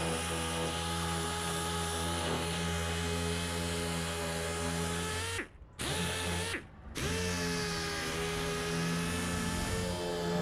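Electric power tool motor running at a steady speed, switched off about five seconds in, given one short burst, then started again and run on.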